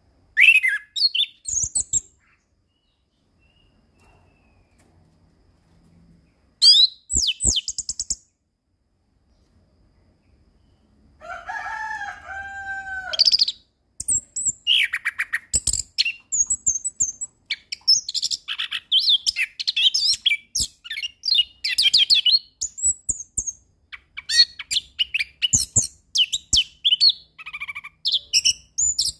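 Orange-headed thrush (anis kembang) singing a varied song of quick, high, rapidly changing phrases. It sings in two short bursts at first, then runs on almost without a break from about halfway through.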